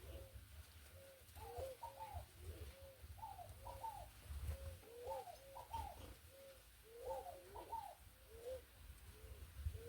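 Doves cooing: a string of short, soft coos repeated about twice a second, broken every second or so by a cluster of higher, wavering coos.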